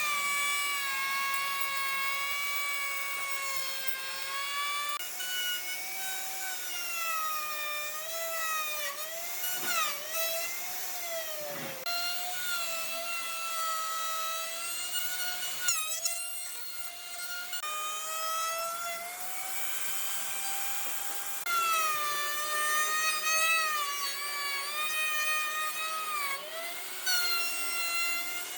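A high-speed electric power tool working wood: a loud motor whine whose pitch repeatedly dips as the tool is pushed into the wood and rises again as the load eases, with brief breaks as it is lifted off and reset.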